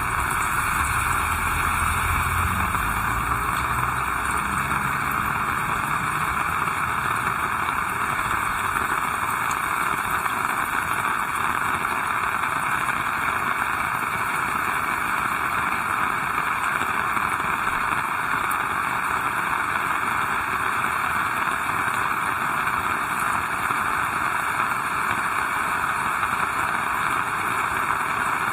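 Heavy rain falling steadily, a dense even hiss. A low rumble fades away in the first few seconds.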